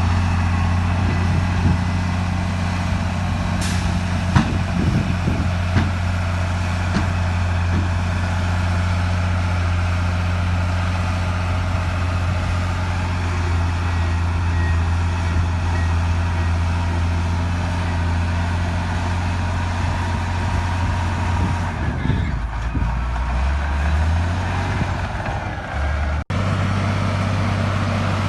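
Heavy earthmoving diesel engine running steadily under load, with a deep constant drone and a few faint clicks and knocks early on. Its pitch drops for a couple of seconds near the end, then the sound cuts out for an instant and resumes.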